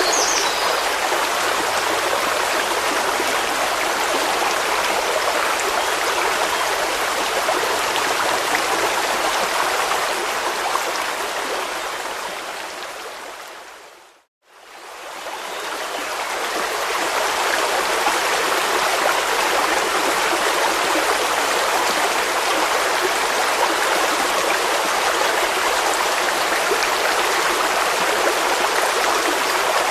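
Stream water rushing steadily. About halfway through it fades down to silence and swells back up within a couple of seconds. A brief high chirp sounds right at the start.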